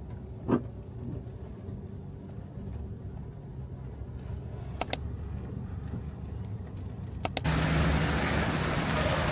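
Low, steady traffic rumble with a few sharp clicks. About seven seconds in it gives way suddenly to a loud, steady rain hiss over the continuing rumble.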